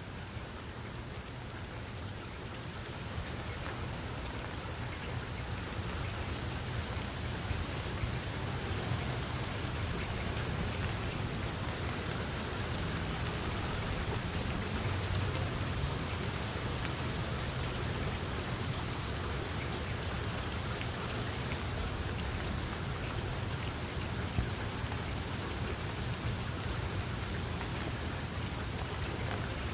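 Steady rain falling, a dense hiss of many drops with a low rumble underneath, growing a little louder over the first few seconds.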